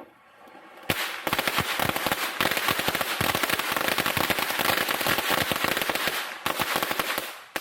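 Consumer fireworks crackling: a dense, rapid stream of sharp cracks and pops that starts suddenly about a second in, runs without a break for several seconds, and stops abruptly near the end.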